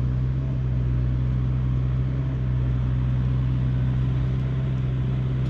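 A vehicle engine idling steadily, a constant low hum that does not change.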